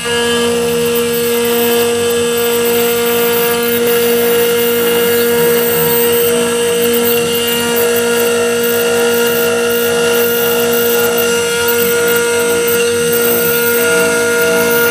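CNC 3040 router's spindle running with the cutter milling 6082 aluminium: a steady machine whine made of several held tones over a noisy cutting hiss.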